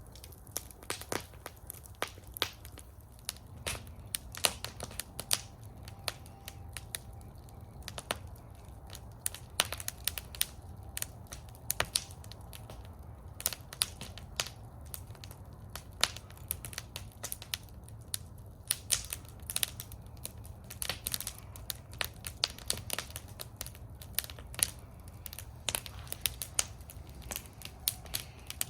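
Wood fire burning in a fire bowl, crackling: a steady stream of sharp, irregular pops and snaps over a low, steady rumble of the flames.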